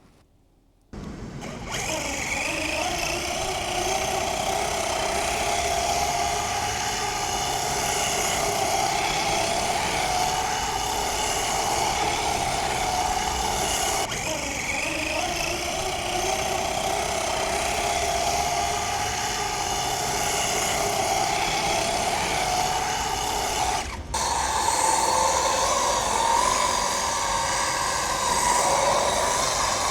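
Electric RC burnout truck's 1100 kV brushless motor running flat out, spinning the rear wheels while the front brakes hold the truck still: a steady high whine with a hiss over it. About a second in it starts from near silence, and near the end it breaks off briefly and comes back at a higher pitch.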